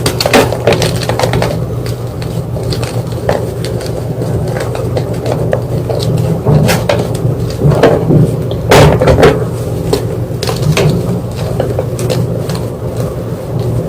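White gym chalk crunching and crumbling in a run of irregular sharp crackles and crunches, a few louder crunches a little past the middle, over a steady low hum.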